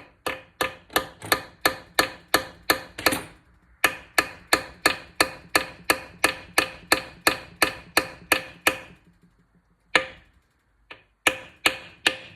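Small hammer tapping the rivet into the ID tag on a Ford toploader 4-speed transmission: rapid, even, ringing taps about five a second in two long runs, then after a pause a single tap and a few more near the end.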